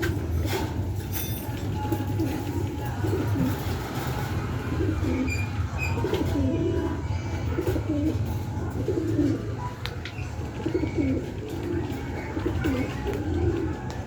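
Pigeons cooing over and over, with a steady low hum underneath.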